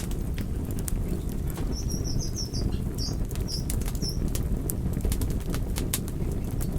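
Wood fire crackling, with frequent sharp pops and snaps over a steady low rush of burning. About two seconds in comes a short run of high chirps that lasts a couple of seconds.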